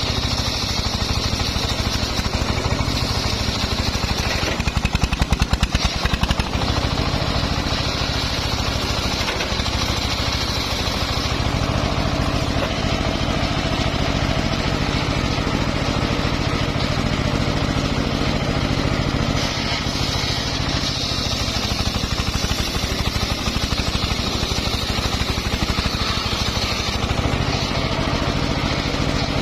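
Homemade engine-driven circular sawmill running steadily while sawing mahogany logs. The engine runs evenly throughout, and a higher hiss grows stronger for stretches and then eases.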